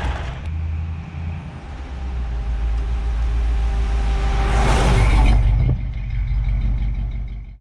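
Vehicle engine rumbling steadily, with a louder hissing rush for about a second, some four and a half seconds in.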